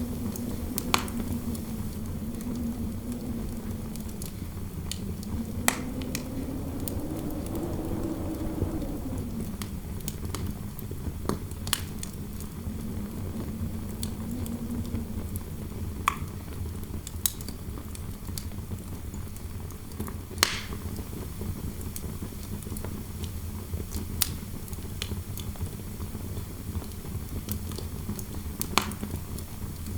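Fireplace fire crackling, with sharp pops every second or two over a low rumble, while interior wind howls in a low wavering moan that rises in pitch about a quarter of the way in and then settles back.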